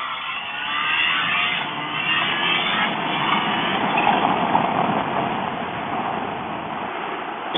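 Supercharged Kawasaki Ninja H2 motorcycle engine running under way with heavy wind rush, its pitch rising in the first couple of seconds.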